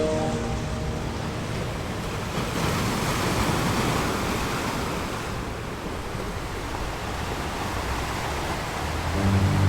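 A steady rushing noise, like surf, that swells a few seconds in and then eases back.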